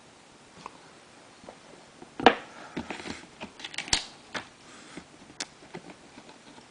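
Trading cards and their plastic holders being handled: scattered light clicks and rustles, the sharpest about two and four seconds in.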